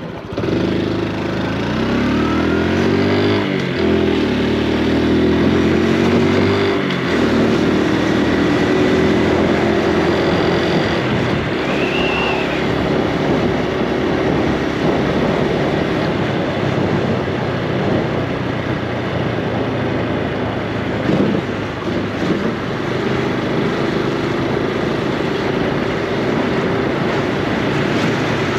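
Honda Super Cub C125's single-cylinder four-stroke engine accelerating through the gears. Its pitch climbs, drops at a shift a few seconds in, and climbs again. It then runs steadily at cruising speed.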